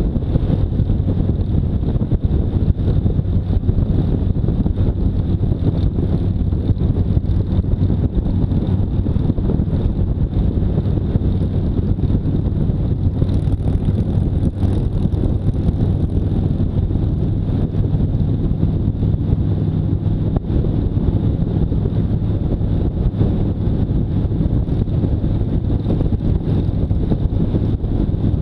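Motorcycle engine running at a steady speed while riding, with heavy wind noise on the microphone.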